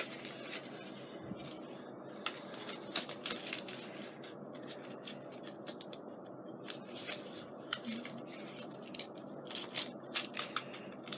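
Paper and plastic being handled at a craft table: irregular light rustles, crinkles and small clicks as packets and sheets of stickers are leafed through.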